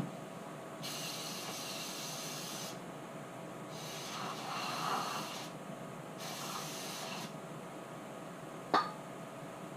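Aerosol brake cleaner sprayed in two hissing bursts, about two seconds and then about one second, cleaning out the oil filter housing cap. A softer scuffing noise comes between the bursts and a short click near the end.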